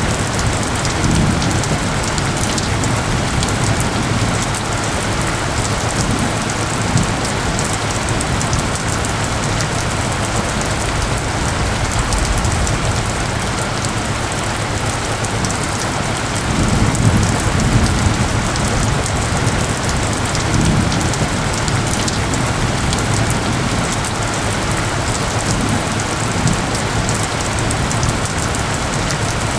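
Steady, heavy rain falling on a forest, a dense even patter, with a few low rumbles of distant thunder, the strongest about two-thirds of the way in. A faint steady tone, the soundscape's isochronic tone, hums under the rain.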